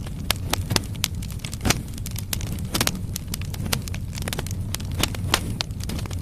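Firewood burning in a fireplace: irregular sharp crackles and pops, several a second, over a steady low rumble of the flames.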